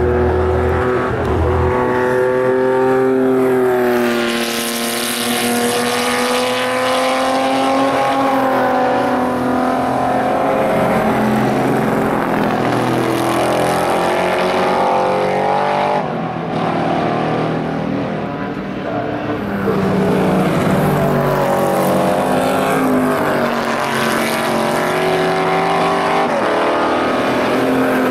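Historic 1960s racing cars running at speed past the track, several in succession, their engine notes rising and falling in pitch as they accelerate, shift and go by.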